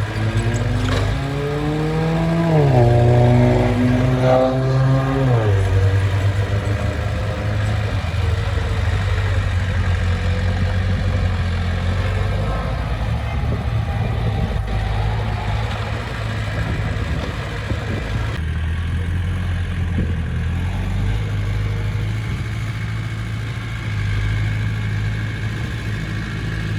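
Heavy diesel engine of earthmoving machinery revving up twice in the first few seconds, each time dropping back, then running steadily at working speed.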